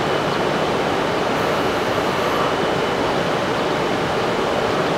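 E6 series Shinkansen train standing at the platform with its onboard equipment running: a steady, even rushing noise with a faint high tone.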